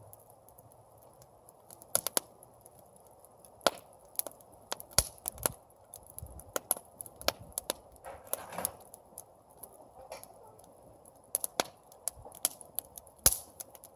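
Campfire crackling: irregular sharp pops and snaps over a steady low hiss of the flames, with a brief louder hiss about eight seconds in.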